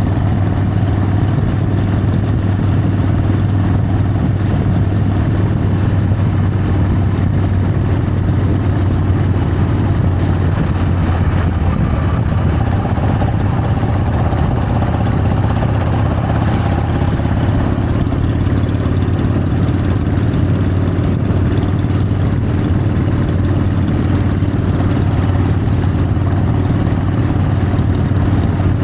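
Harley-Davidson Sportster's V-twin engine running steadily under way, a constant low drone with no change in pace.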